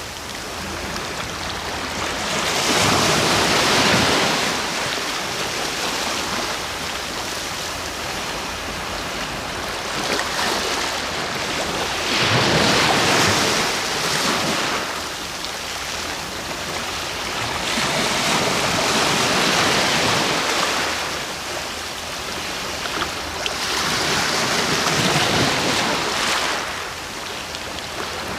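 Sea waves breaking and washing ashore, a steady rush of surf that swells four times, every six seconds or so.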